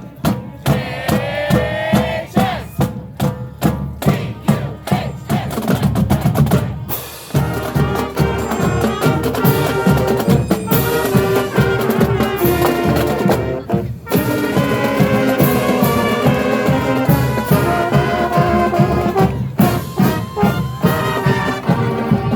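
Marching band playing. The first seven seconds are mainly drumming with a few held notes. After a brief break the full band of brass and winds comes in with held chords over the drums.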